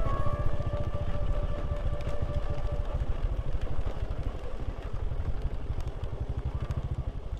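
Motorcycle engine running steadily, a low rapidly pulsing rumble. Faint music fades out in the first few seconds.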